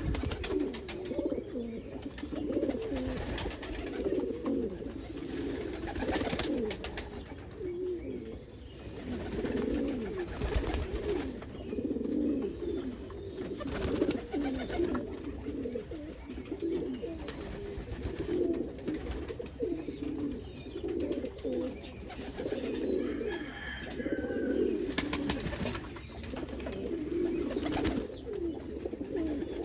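Homing pigeons cooing without a break, the coos of a crested Homer cock and other birds rolling on and overlapping one another.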